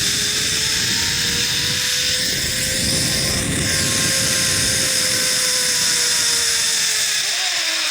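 Zip-line trolley pulleys running along the steel cable: a steady whine over a loud rush of wind. The whine's pitch drops near the end as the trolley slows.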